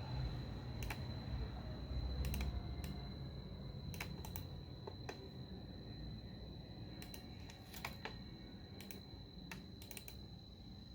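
Computer keyboard keys clicking in short, irregular runs, over a faint steady high-pitched whine.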